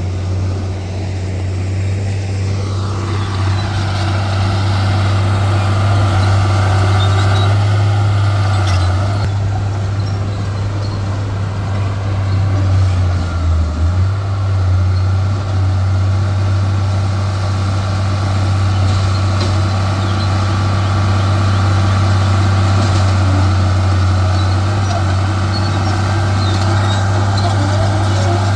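Heavy diesel earthmoving machinery running steadily with a deep, constant engine hum. A higher mechanical band joins about three seconds in.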